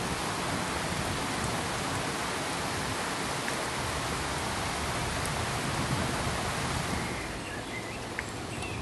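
Steady pink noise: an even, full-range hiss with no tones, easing slightly about seven seconds in, where a few faint ticks show.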